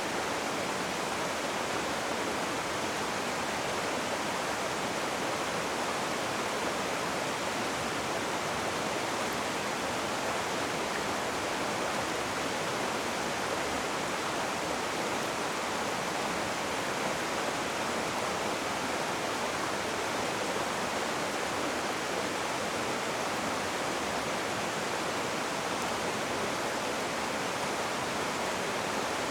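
Rushing river water: a steady, unbroken hiss of fast-flowing water with no pauses or changes.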